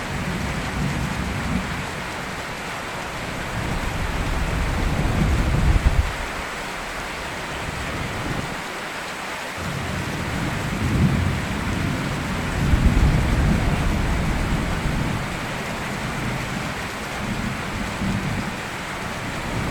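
Steady rain falling, with rolling thunder rumbling deep underneath. The thunder swells about five seconds in and again about halfway through, easing off briefly in between.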